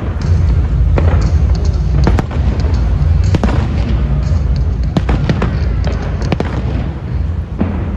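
Aerial fireworks bursting in quick succession: a continuous deep rumble of booms with many sharp cracks and pops on top, with music playing underneath.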